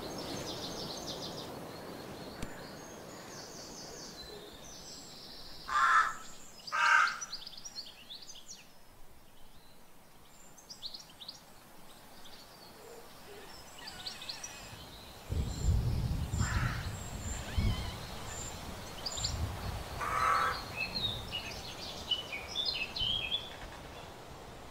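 Birds calling outdoors: two loud, short, harsh calls about a second apart, two more later, and smaller birds chirping throughout, with a low rumble midway.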